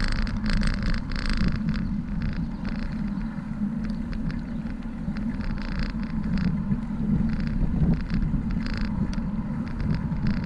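Wind rumbling on the microphone of a moving bicycle, with road traffic and many short rattles and clicks over it.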